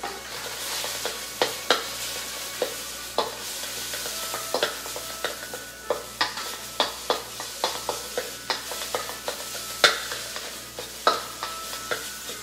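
Egg frying in butter in a wok: a steady sizzle, with irregular sharp clicks and taps as it is stirred against the wok.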